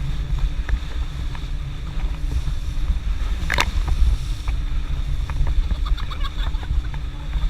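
Motorboat engine running steadily under heavy wind rumble on the microphone, with scattered small clicks and one brief sharp noise about three and a half seconds in.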